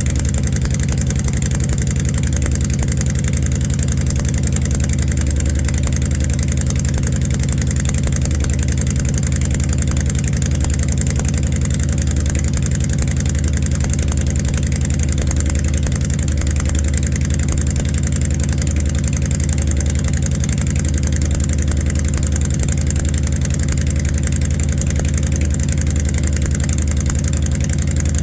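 Honda Fury 1300's V-twin engine idling steadily on a cold start, warming up after about two months of sitting.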